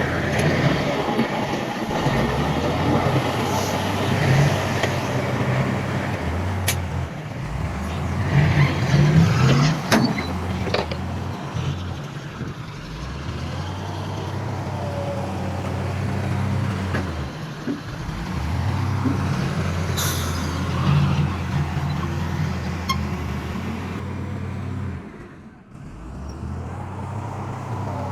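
Heavy diesel engines of earthmoving machinery (bulldozer and dump trucks) running and working under load, the engine note rising and falling, with a few sharp metallic clanks. The sound drops away briefly near the end before the engines return.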